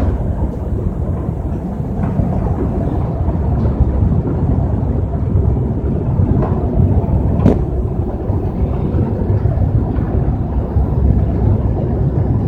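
A crusher machine running: a loud, steady heavy rumble with a few short knocks, the clearest about seven and a half seconds in.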